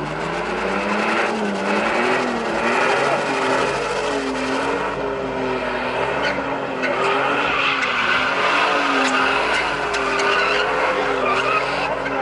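A car's engine revving up and down, its pitch rising and falling about once a second, while its tyres squeal and skid on the pavement in a drift.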